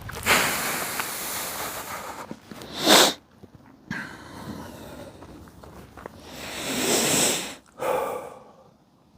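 Gusts of wind rushing and buffeting the microphone, rising and falling in swells. There is a short, sharp hiss about three seconds in.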